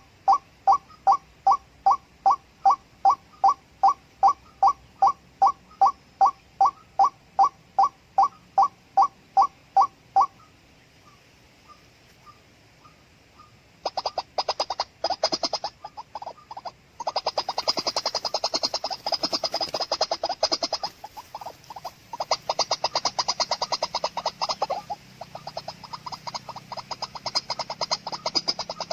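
White-breasted waterhen calls: a steady series of short repeated notes, about two and a half a second, for roughly ten seconds, then after a brief pause a faster, denser run of overlapping calls.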